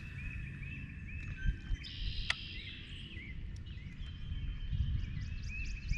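Songbirds singing: short chirping notes repeated over and over, with a higher trill about two seconds in, over a steady low rumble. One sharp click a little after two seconds.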